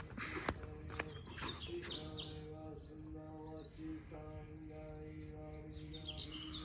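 Small birds chirping in quick rising and falling calls over soft background music of long held notes. A few sharp clicks in the first second and a half.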